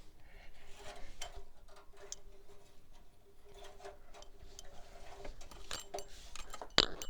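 Scattered light clicks and taps of metal and plastic parts being handled in a pickup's engine bay, the dipstick going back into its tube, with a sharper click near the end. A faint steady hum lies underneath.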